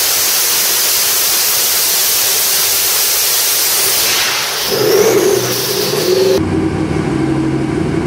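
Twin-turbo 427 small-block Chevy on the dyno at full throttle: a loud, hissy rush. About four and a half seconds in the throttle closes, a turbo whine rises and falls away, and near the end it drops abruptly to a steady idle.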